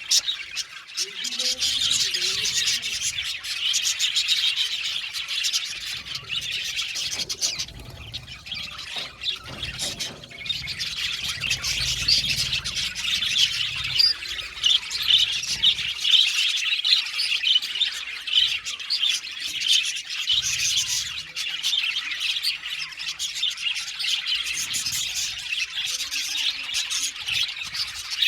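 A flock of budgerigars chirping and chattering continuously, many overlapping high chirps and squawks.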